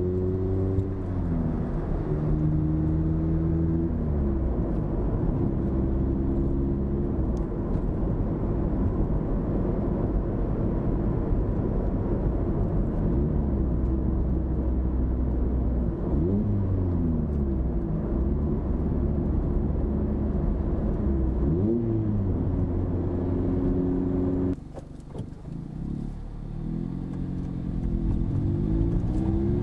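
ND Mazda MX-5 Miata's four-cylinder engine through an AIMGAIN valved aftermarket exhaust, driving. The note holds steady for stretches and swings in pitch between them as the revs change and the gears shift. About three-quarters of the way through it falls to a quieter, lower drone, then builds up again near the end.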